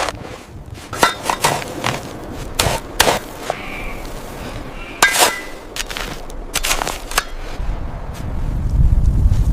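Irregular sharp knocks and clinks of hard objects, about a dozen spread over several seconds, a few with a short ringing tone. A low rumble builds near the end.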